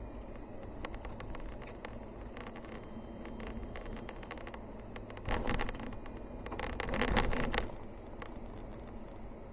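A car driving along a road: a steady low rumble of engine and tyres, broken by two bursts of rattling and scraping, one about five seconds in and a longer, louder one about seven seconds in.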